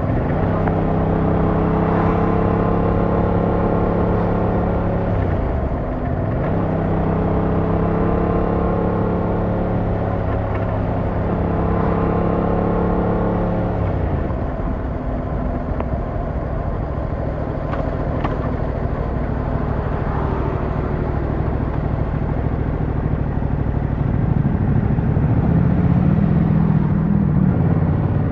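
Yamaha MT-07's 689cc parallel-twin engine heard from the rider's seat, running at a steady cruise. The engine note dips and recovers twice as the throttle is eased off and reopened, settles to a lower pitch midway, then climbs again near the end as the bike accelerates.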